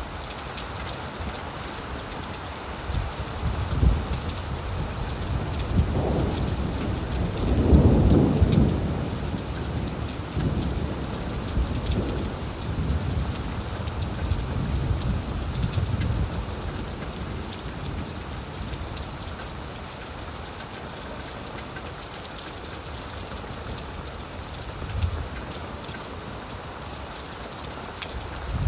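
Heavy rain drumming on an old tin roof as a steady hiss, with thunder rumbling several times, loudest about eight seconds in and again faintly near the end.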